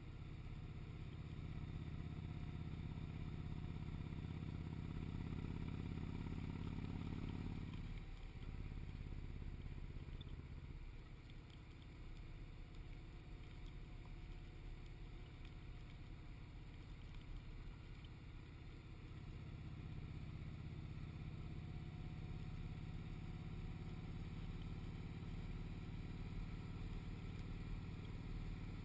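Motorcycle engine and road noise while riding, a steady low drone. The drone falls away sharply about eight seconds in, stays lower for a while, then builds back up again about two-thirds of the way through.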